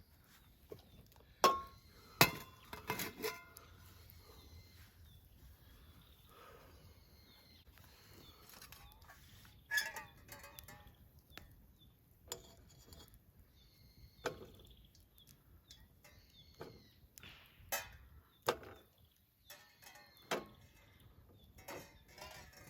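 Scattered knocks and clinks of camp cooking gear, a few sharp ones near the start with a brief metallic ring, over faint bird calls.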